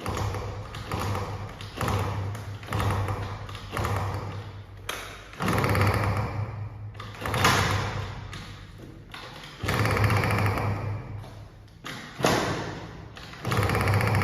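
Scooter engine revved in a series of sharp throttle blips, each surging up and dying back toward idle over a second or two, with several quick blips close together near the start.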